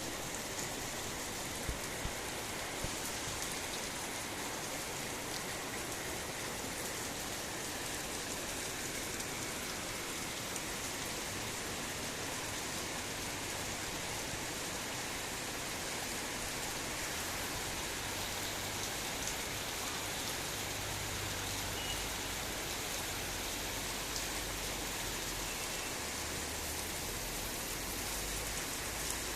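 Heavy rain falling in a steady downpour, with a few louder drop hits.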